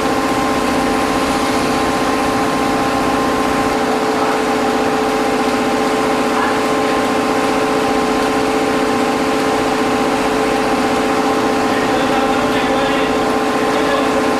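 Steady machine hum with several fixed tones, unchanging throughout, from the machinery of a train washing plant.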